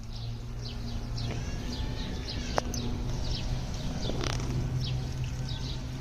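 Small birds chirping, short high chirps several times a second, over a steady low hum. A single sharp click comes about two and a half seconds in.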